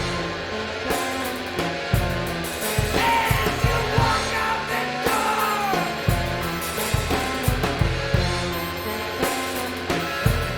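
Instrumental passage of a noise-rock song: drums keeping a regular beat over held bass notes, with a few sliding high notes in the middle.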